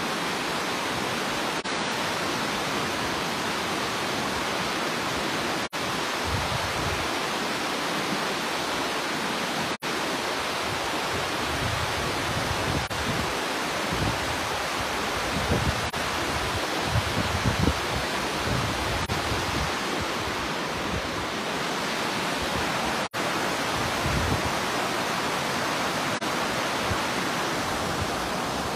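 Flooded river rushing past: a steady, even noise of fast, high water, with low bumps now and then.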